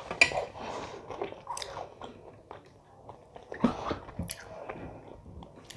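Close-up chewing and eating sounds: moist mouth noises with sharp little clicks and crunches every second or so.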